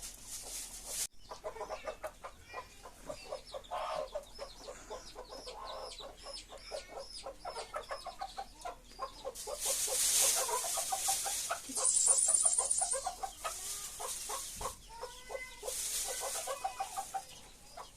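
Chickens clucking, with a run of rapid high peeps over the clucks for several seconds, and stretches of hissing noise about ten seconds in and again near the end.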